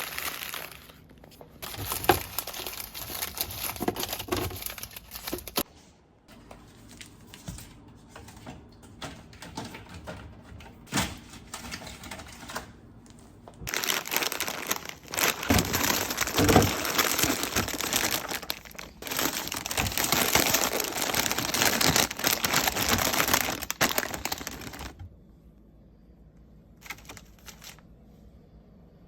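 Plastic grocery packaging crinkling and rustling as it is handled, with many light clicks and knocks of items and containers being set down. Two long busy stretches, the second the louder, then it falls quiet near the end.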